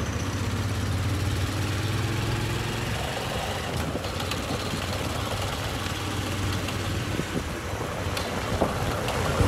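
Motorcycle taxi's engine running at a steady pace under a rushing haze of ride noise; the engine hum is a little stronger for the first few seconds.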